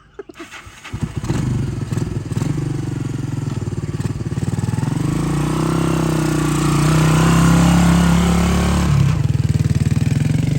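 Kawasaki three-wheeler engine catching about a second in after a few sputters, then running steadily, rising in pitch and loudness midway and easing back near the end. The engine is running again after its carburettor was cleaned and the old gas drained.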